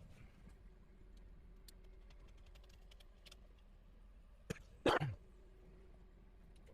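Faint scattered clicks and taps of small computer parts being handled while an iMac G3 is taken apart, with a sharp click and then one louder short noise a little before five seconds in.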